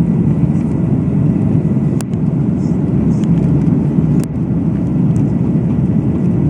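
Airbus A350-900 cabin noise: the steady rumble of its Rolls-Royce Trent XWB engines and airframe heard from inside the cabin, loud and low. Two sharp clicks, about two and four seconds in.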